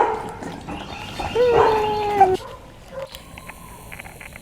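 English setter puppy whining: a brief yelp at the start, then one drawn-out, slightly falling whine about a second and a half in. A faint high hiss follows near the end.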